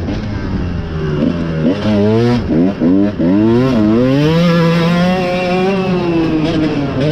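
Dirt bike engine revving up and down through several quick throttle changes, with short drops as the throttle is chopped, then holding a steadier, higher note.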